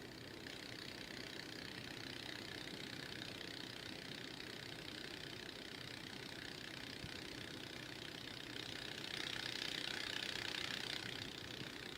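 Steady, strange hissing noise from a television's speaker on a faulty channel, with a low rumble under it; it grows louder about nine seconds in, then eases back.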